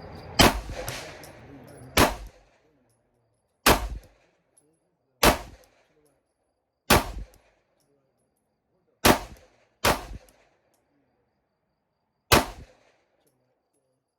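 Eight shots from a 9mm pistol, fired slowly about a second and a half apart, with the sixth and seventh closer together.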